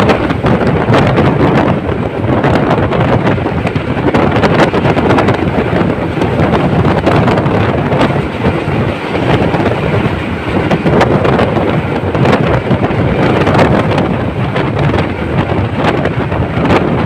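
Wind rushing over the microphone on a moving train, with the train's running noise and many small knocks and rattles underneath.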